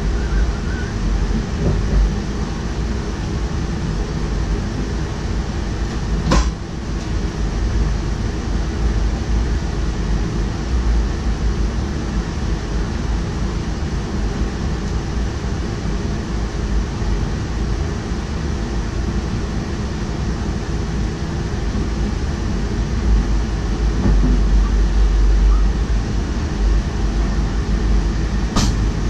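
DDAR double-deck train running along the track, heard from the driver's cab: a steady rumble and rushing noise, with two sharp clicks, one about six seconds in and one near the end.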